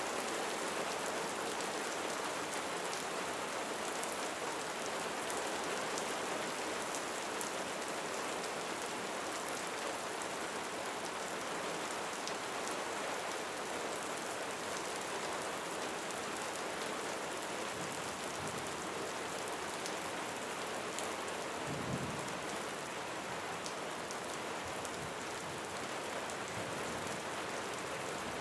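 Steady rain drumming on a roof, a dense even hiss of drops with fine ticks from individual drops. About three-quarters of the way through, a short low rumble of distant thunder.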